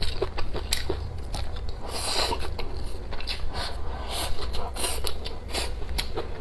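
Close-up chewing and crunching of food in the mouth, a string of small crisp clicks, with two longer hissing noises about two and five seconds in.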